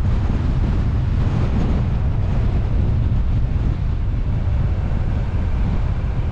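Wind buffeting the microphone of a car-mounted GoPro HERO8 while driving: a steady low rumble with road and engine noise underneath.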